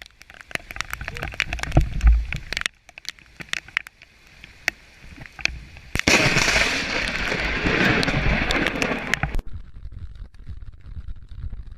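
Close thunder from nearby lightning strikes: a run of sharp crackling cracks with a low boom about two seconds in, then a few sparse cracks, then about three seconds of loud rushing rumble that cuts off abruptly.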